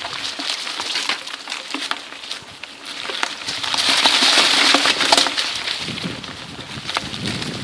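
Bicycle tyres rolling over a forest dirt trail, a crunching hiss dotted with many small crackles and snaps. It swells louder about halfway through.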